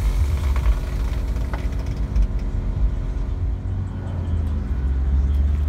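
A car engine running, a low steady rumble with a faint steady hum above it.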